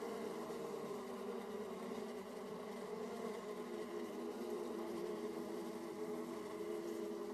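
Honeybees buzzing at the hive entrance: a steady, many-voiced hum of workers flying in and out, with several overlapping pitches.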